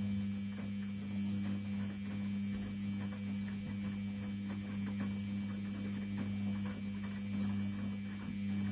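Washing machine's motor turning the drum during a wash cycle: a steady low hum with faint ticking from the tumbling load, winding down at the very end.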